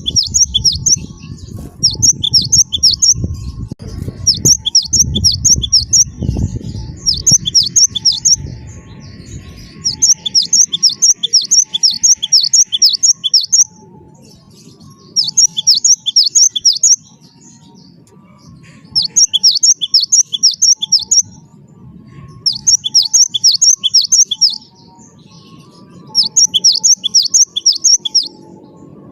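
Cinereous tit (gelatik batu) singing in repeated bursts of rapid high notes, each lasting one to three seconds, with short pauses between. A low rumble sits under the song for the first few seconds.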